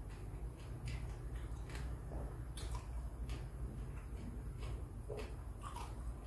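Close-miked mouth sounds of a person eating fried tilapia with his fingers: chewing with irregular soft, wet clicks every second or so.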